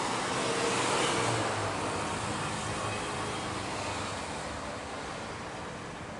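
Rushing noise of a passing vehicle, loudest about a second in and then slowly fading.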